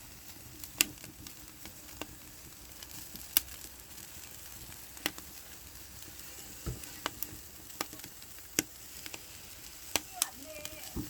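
Marinated pork belly sizzling over an oak-wood fire in a brazier, a steady hiss broken by scattered sharp pops and crackles.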